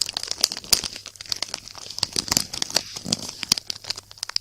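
Close-miked crinkling of a Walkers Sunbites crisp packet: a dense, irregular run of sharp crackles.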